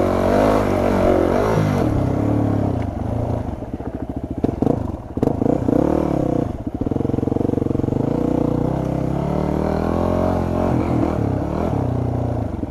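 Yamaha WR250R dual-sport's single-cylinder four-stroke engine revving up and down as it is ridden, with a few brief knocks around the middle and a steadier stretch after.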